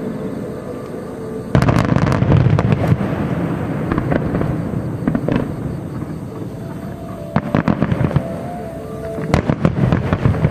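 Aerial fireworks shells bursting over a continuous rumble. A loud burst with dense crackling comes about a second and a half in, and further clusters of sharp bangs and crackles come around seven and a half seconds and again near the end.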